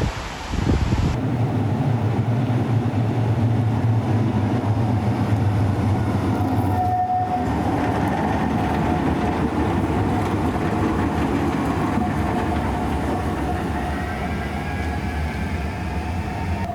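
Bombardier NGT6DE tram running on its rails with a steady low rumble. A steady electric drive whine comes in about seven seconds in, and fainter rising whines near the end suggest the tram picking up speed.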